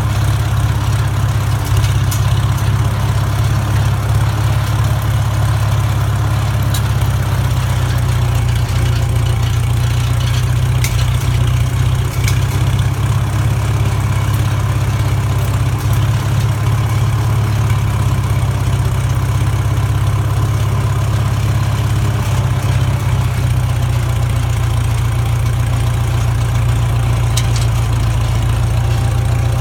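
1944 McCormick-Deering O-4 orchard tractor's four-cylinder engine running steadily as the tractor is driven, with a deep even drone.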